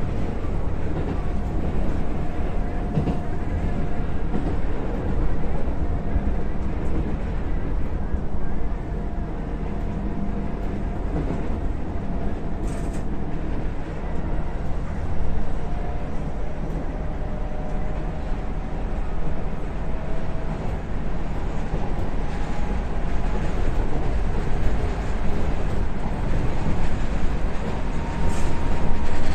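Keisei 3700 series electric train running, heard from inside the car: a steady low rumble of wheels on track with faint whining tones, one rising in pitch near the end, and an occasional brief click.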